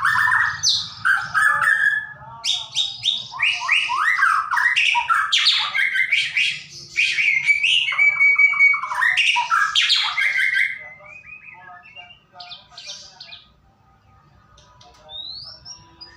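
White-rumped shama (murai batu) singing a rapid, varied song of whistles and quick note runs, the kind of song used as a trigger to get caged shamas singing. The song is loud and continuous for the first ten seconds or so, then thins to softer scattered notes.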